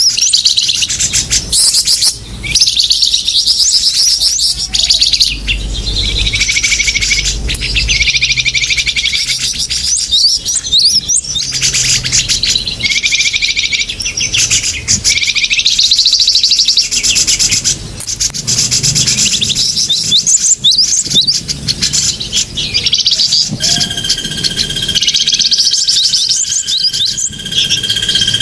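Bird-lure recording of many small birds chirping and twittering in dense, overlapping, rapidly repeated calls. A steady high tone joins in near the end.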